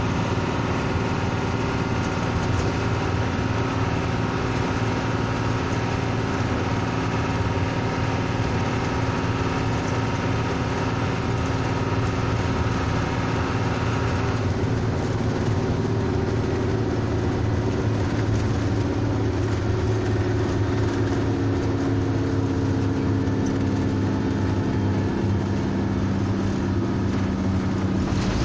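Bus engine running steadily with a deep, even hum. About halfway through, the higher part of the sound falls away and the lower tones shift slightly, as the engine eases.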